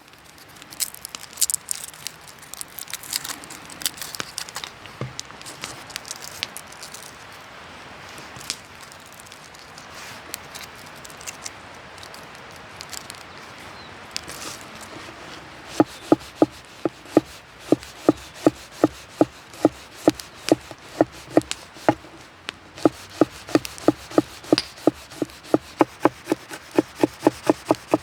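Irregular light clicks and rustling, then from about halfway a steady rhythm of a knife chopping on a wooden cutting board, about three to four chops a second.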